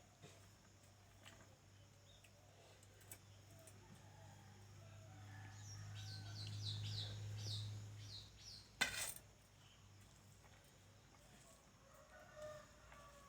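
Faint bird chirps: a quick run of short, high, falling notes around the middle, over a low hum that swells and then fades. One sharp click comes a little after the chirps.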